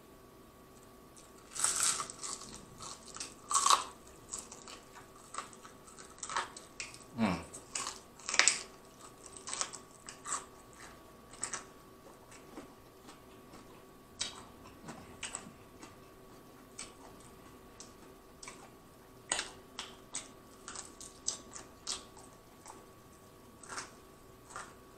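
Close-miked biting and chewing of crispy fried chicken wing flats, the breading crackling in short sharp crunches. The crunches come thick and loud over the first several seconds, then give way to sparser chewing clicks.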